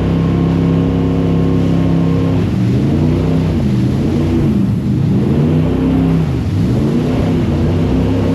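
Jet boat engine running at a steady pitch, then from about two and a half seconds in its pitch rises and falls again and again as the throttle is worked, before settling near the end.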